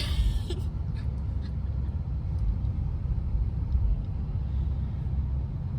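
Low, steady rumble of a car's road and engine noise heard from inside the cabin, with a brief hiss right at the start.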